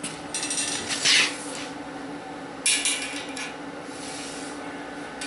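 Steel tape measure being pulled out and run across the frame, two short rasping scrapes of the blade, the first about a second long and the second shorter, near the middle.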